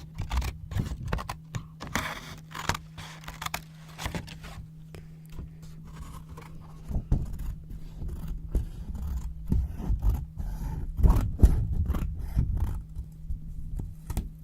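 Scissors cutting yellow paper: a run of sharp, irregular snips with paper rustling and scraping between them, over a faint steady low hum.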